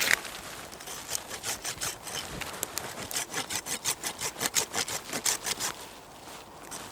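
Small hand saw cutting through a dead branch for firewood: quick, even strokes, about four a second, that stop about six seconds in.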